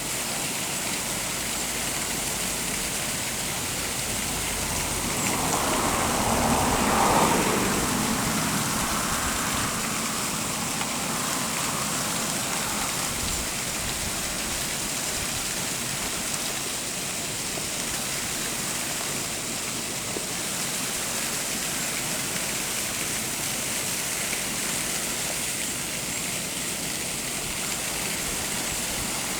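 Steady rushing of a roadside waterfall. A vehicle passes about five to nine seconds in, briefly louder than the water.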